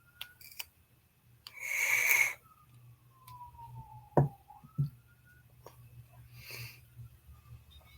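Close-miked breath sounds over a low steady electrical hum: a loud breath or sniff about a second and a half in and a softer one near the end, two sharp clicks about four seconds in, and faint slowly falling whistle-like tones.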